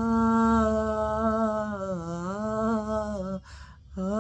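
A man singing unaccompanied, holding one long note that wavers and dips in pitch about two seconds in. He sings with a nasal tone from a cold. He takes an audible breath, and the next note begins near the end.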